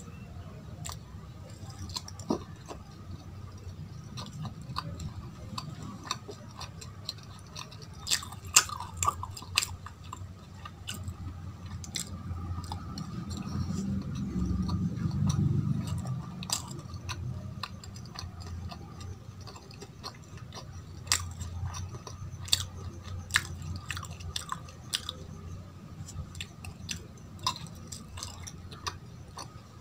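Close-miked chewing of syrupy Indian sweets such as jalebi, with many sharp wet mouth clicks and smacks scattered throughout. A low rumble swells for a couple of seconds around the middle.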